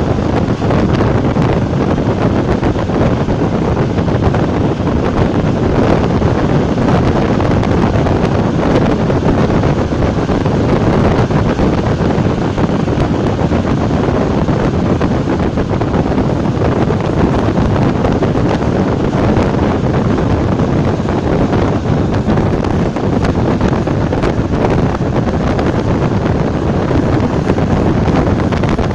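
ČD class 460 electric multiple unit running at speed: a loud, steady rumble and rush of running noise, with wind buffeting the microphone.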